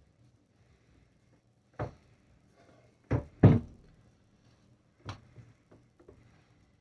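A series of separate heavy knocks and clunks from the Cincinnati vertical milling machine's head and rapid-feed mechanism as the head is wound up and down. The loudest two come close together about three and a half seconds in, with a faint steady hum beneath.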